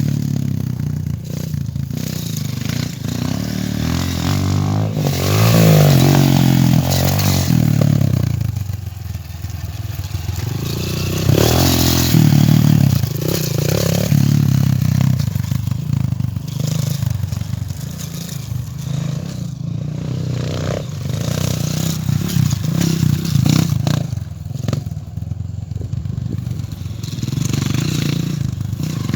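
230 cc dirt bike engine being ridden, revving up and dropping back again and again as it accelerates and eases off, with rattling and scraping knocks throughout.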